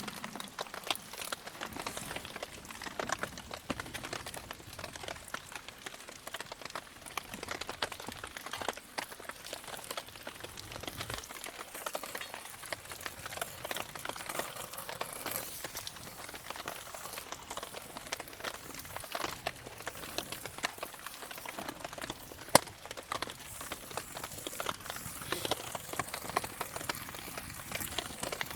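Wood campfire crackling with many small irregular pops, and one sharp loud pop about two-thirds of the way through.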